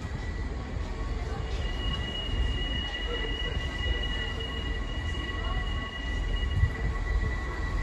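Great Western Railway Class 165 Networker Turbo diesel multiple unit approaching and slowing into the platform, with a low rumble and a steady high-pitched squeal that starts about a second in, a second higher squeal joining it for a few seconds.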